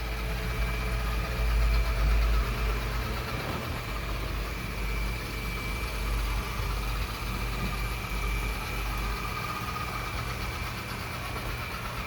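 Yeedi Vac 2 Pro robot vacuum running while vacuuming and mopping: a steady motor and fan whir with a thin high tone over it and a low rumble that swells about two seconds in.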